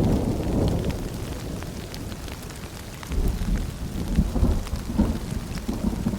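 Steady rain with rolling thunder: a low rumble fades over the first few seconds, and another rises about three seconds in, with scattered drops ticking on top.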